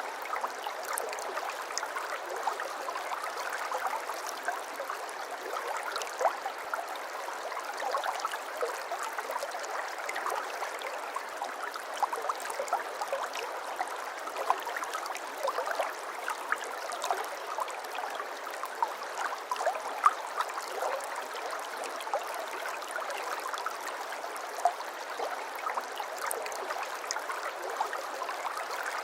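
Small stream babbling steadily over stones: an even rush of water dotted with many tiny splashes and plinks, without deep rumble.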